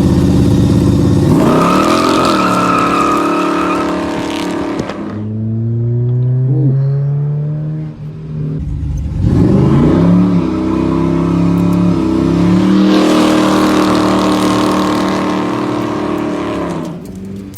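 A 1960s-style gasser drag car's engine accelerating hard, twice. The pitch climbs about a second in and holds high for a few seconds, then drops back. It climbs and holds again from about halfway until near the end.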